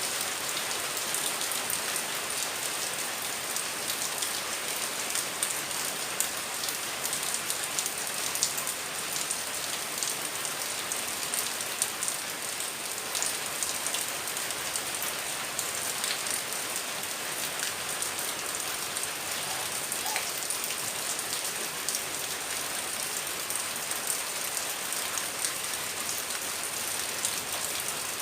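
Rain falling steadily: an even hiss dotted with many small drop ticks.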